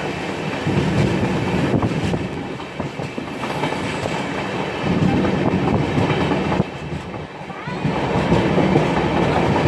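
Passenger train running through a station, heard from an open coach doorway: a steady rumble of wheels on rails with scattered clicks over the rail joints. The loudness dips briefly about two-thirds of the way through, then rises again.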